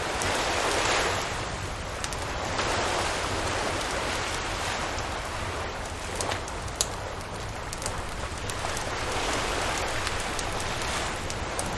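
Surf washing ashore in slow swells, with a wood campfire crackling and popping over it; one sharp pop stands out a little before the seven-second mark.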